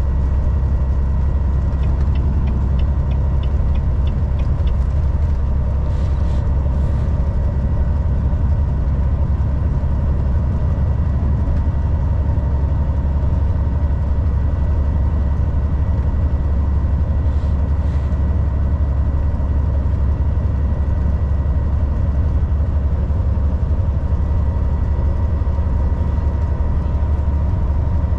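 Volvo VNL 760 semi truck cruising on the highway: a steady deep engine and road rumble with a thin steady whine above it. A short run of faint rapid ticks comes a couple of seconds in, and two brief faint hisses come later.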